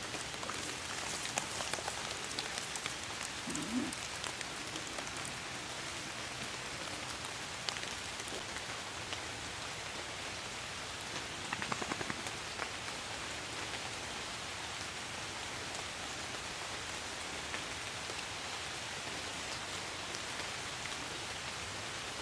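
Steady rain falling, an even hiss of drops, with a short cluster of louder taps about halfway through.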